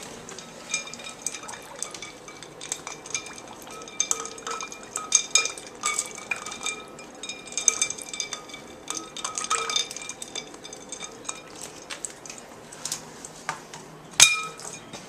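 Ice cubes knocking and clinking against a dog's water bowl as the dog plays in it, a string of irregular clinks, each with a brief ring. The loudest clink comes near the end.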